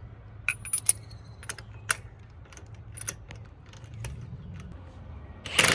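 Small metal pieces clinking and jangling in a series of light, sharp clicks over a low steady hum. A loud, short rushing noise starts just before the end.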